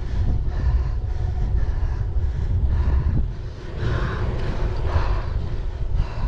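Wind buffeting the microphone over a low, uneven rumble from riding an electric-assist bike towing a cargo trailer up a long hill.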